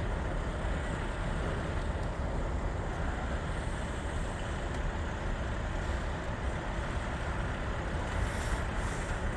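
Norfolk Southern mixed freight train rolling slowly past, a steady low rumble.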